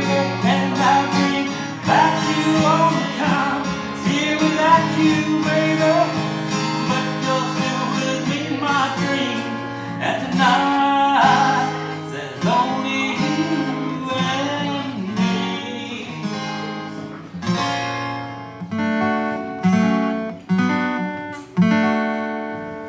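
Acoustic guitar played live, an instrumental passage of picked and strummed chords; over the last few seconds single strummed chords ring out and fade, about one a second.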